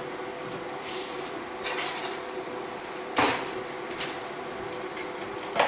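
Kitchen clatter of pots, dishes and utensils being handled: a few brief knocks and clinks, the loudest about three seconds in, over a steady faint hum.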